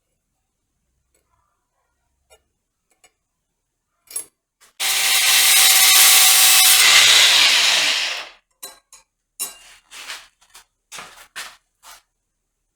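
A power tool runs for about three and a half seconds, then spins down with a falling hum. Several short scraping rubs follow.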